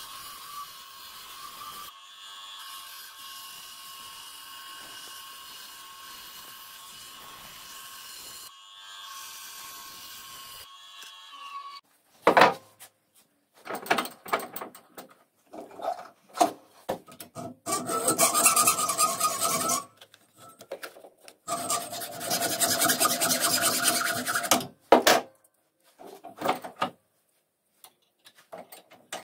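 Hand rasp scraping across wood in runs of quick strokes, the longest lasting two to three seconds, starting about twelve seconds in. Before that, only a faint steady hum.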